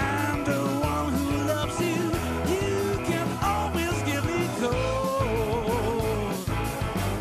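Blues-rock band playing: drums keeping a steady beat under sustained bass and keyboard chords, with a lead melody line that slides and bends between notes and wavers with vibrato.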